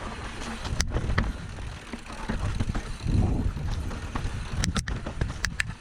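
Bicycle rolling over rough ground, with wind buffeting the microphone and a low rumble; sharp clicks and rattles about a second in and several more near the end.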